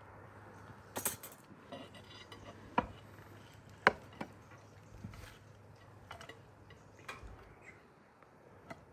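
Scattered light clinks and taps of cutlery on plates and dishes during a meal, a few separate sharp ticks spread through, over a faint low hum.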